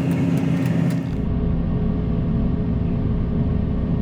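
Combine harvester running: a steady machine drone. About a second in it changes abruptly to a deeper, duller rumble.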